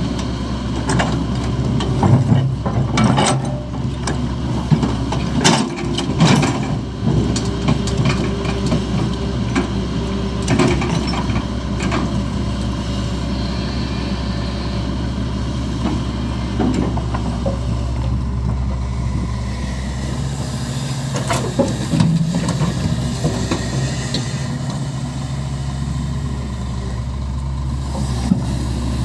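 Heavy diesel engines of an excavator and dump truck running steadily, with scattered knocks and clatter from soil being loaded. The knocks come mostly in the first several seconds and again now and then later.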